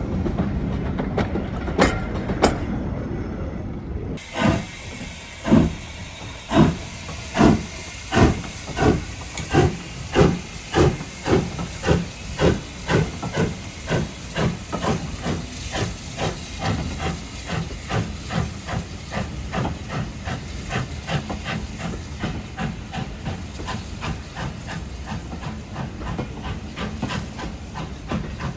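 Low train rumble with a few sharp clicks. About four seconds in, a steam locomotive sets off: its exhaust chuffs start slow and loud, quicken steadily into a fast, softer beat, and run with a steady hiss of steam.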